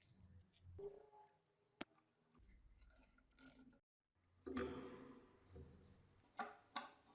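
Faint scattered clicks and scraping of hands working on small metal parts. The sound cuts out completely for a moment just before the middle, then comes a longer scrape and two sharper clicks near the end.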